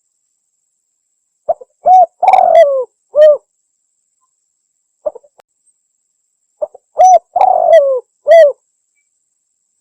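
Spotted dove cooing: two phrases of a few short coos around a longer, falling middle coo, the second phrase about five seconds after the first.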